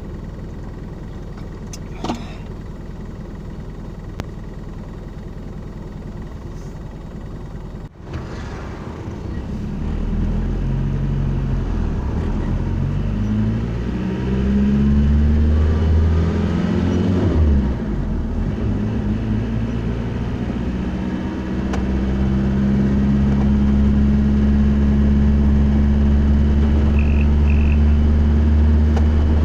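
Car engine accelerating: the engine note climbs in several steps as it moves up through the gears, then settles into a steady low drone with road noise. A brief click comes early, and there is a momentary dropout about a quarter of the way in.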